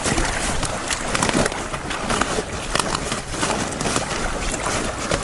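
Tent nylon and ground sheet rustling and crinkling in irregular bursts as someone shifts around on the tent floor, over branches underneath.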